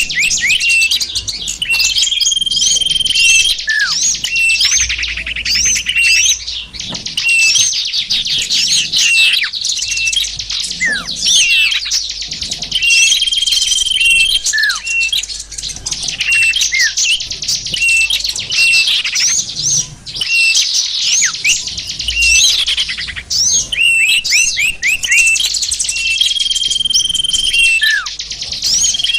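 Bird-lure recording of small songbirds: many quick chirps, trills and down-slurred calls overlap densely throughout. A short, level whistle comes back three times, about twelve seconds apart, as the mix repeats.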